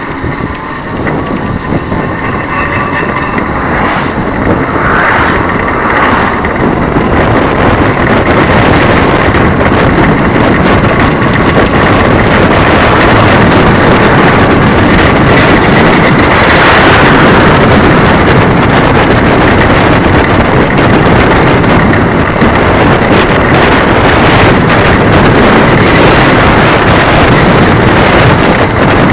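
Wind rushing loudly over the microphone of a moving bicycle, building over the first dozen seconds and then holding steady. A faint engine whine shows through in the first few seconds.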